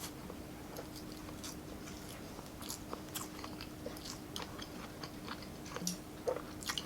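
A person chewing food with their mouth, making many short wet clicks and smacks, over a faint steady hum.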